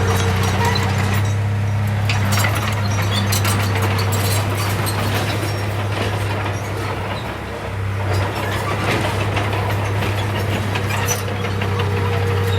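Heavy diesel earthmoving machine engine running at a steady pitch, with frequent short clanks and rattles over it; the engine eases briefly about seven seconds in, then picks back up.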